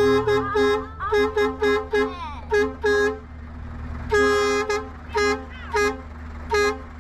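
Truck horn tooted over and over in short blasts at one pitch, in an uneven rhythm with one longer blast about halfway through, over the steady low hum of the idling engine.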